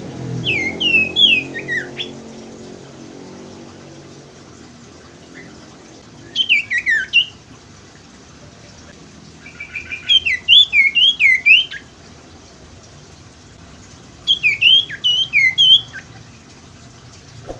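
A sirtu (cipoh, common iora) singing in four separate bursts. Each is a quick run of high, sweeping chirps with pauses of a few seconds between the phrases.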